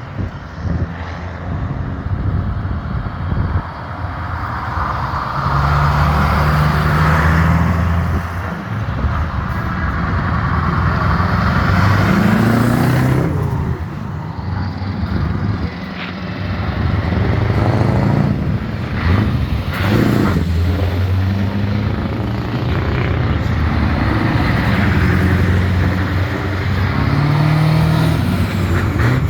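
Old trucks driving past one after another, their engines running loudly. The engine sounds swell and fade as each one passes, with the pitch bending as they go by.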